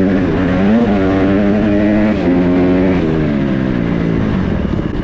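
Motorcycle-type engine running under throttle, its pitch rising and dropping several times as the revs change.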